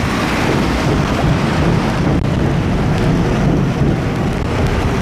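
Steady rumble of wind buffeting the microphone, mixed with heavy rain and wet road noise while riding an e-bike.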